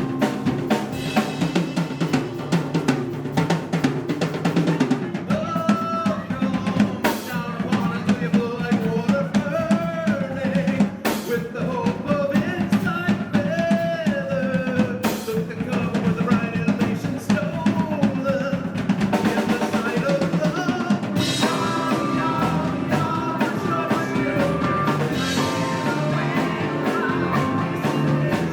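Live rock band playing an instrumental passage: a driving drum kit with snare and bass drum under bass, guitar and a wavering lead melody. Cymbals grow brighter about two-thirds of the way through.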